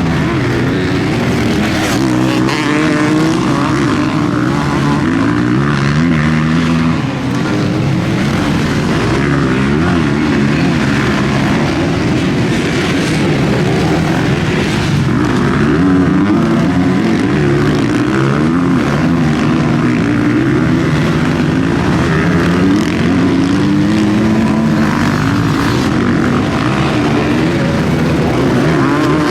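Several motocross bike engines racing together, their pitches rising and falling as riders rev, shift and back off, overlapping without a break.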